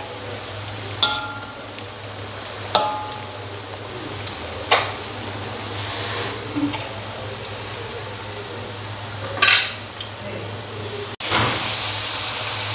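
Purple eggplant sizzling and simmering in a wok, with a metal spatula scraping and a few sharp, ringing metal clinks as the spatula and a lid knock against the wok. About 11 seconds in the sound jumps to louder, steadier sizzling.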